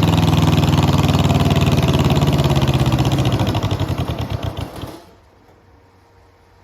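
Swapped-in engine of a home-built 129 garden pulling tractor running steadily, then shut off: its firing pulses slow and spread apart and it stops about five seconds in, leaving a faint low hum.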